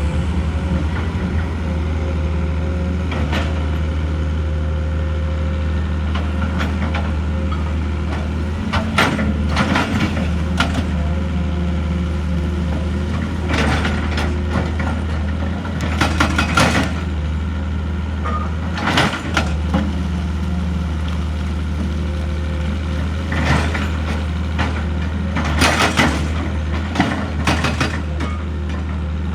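Heavy diesel excavator engine running steadily under load, with irregular sharp clanks and rattles of rock and steel, some in quick clusters, as the machine works through stone.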